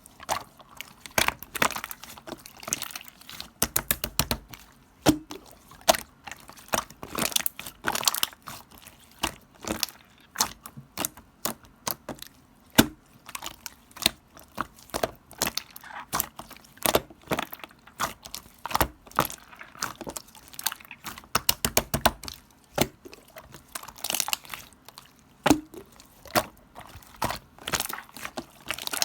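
Clear slime being squeezed, pressed and stretched by hand, giving a dense, irregular run of sticky pops and clicks.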